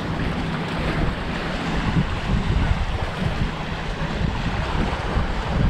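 Surf washing onto a sandy beach as a steady hiss, with gusts of wind rumbling on the microphone.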